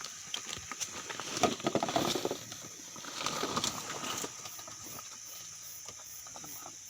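Insects chirring steadily at a high pitch, with a spell of rustling and small clicks from about one to four seconds in.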